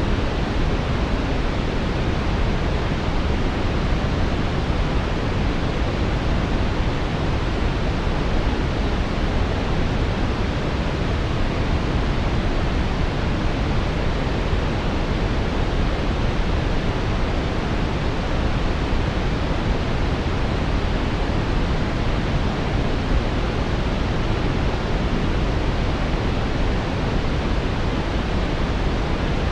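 Steady brown noise: a constant, even hiss-rumble weighted toward the low end, with no change or interruption.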